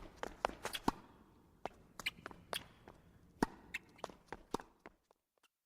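An irregular series of sharp clicks and knocks, about fifteen in five seconds, over a faint low background, used as a sound clue to a place. They stop about five seconds in.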